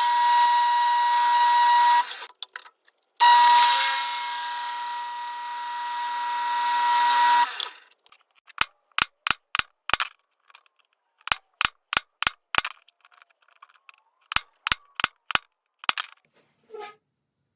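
A power tool runs twice with a steady high whine, the second run fading away as it stops. Then come three quick series of about five sharp taps each.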